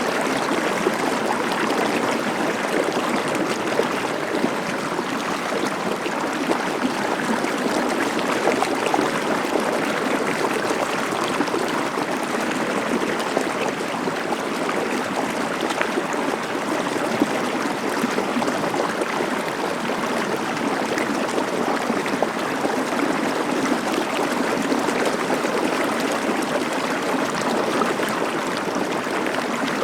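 A stream of water flowing steadily, an even rush of water with no breaks.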